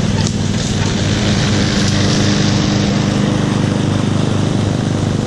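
Small single-cylinder engine running steadily at a constant speed.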